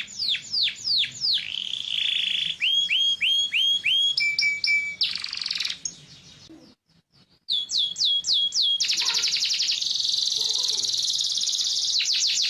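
Yellow domestic canary singing. Its song runs in phrases of repeated down-sweeping whistled notes, with a short break about seven seconds in, then a long, fast, rolling trill.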